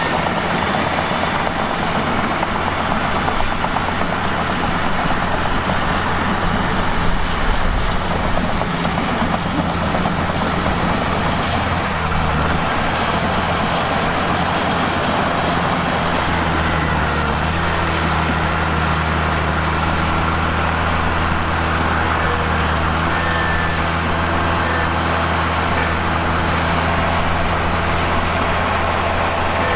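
Mitsubishi bulldozer's diesel engine running under load, a steady drone whose pitch shifts about twelve seconds in and again around seventeen seconds, then holds steady.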